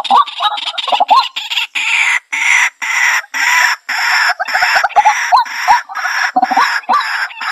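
White-breasted waterhen calling loudly: an unbroken series of harsh, croaking notes about two a second, laced with short rising whistles.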